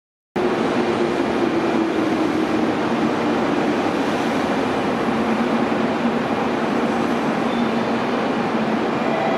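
Freight train behind an ED76 electric locomotive pulling into a station: a steady rail rumble with a low hum that sinks slightly in pitch.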